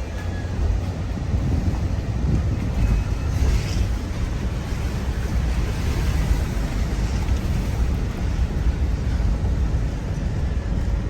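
Steady low rumble of wind buffeting the microphone, mixed with road noise from a moving vehicle.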